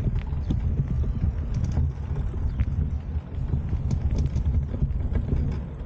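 Wind buffeting the microphone with an uneven low rumble while riding, with scattered light clicks and rattles over it.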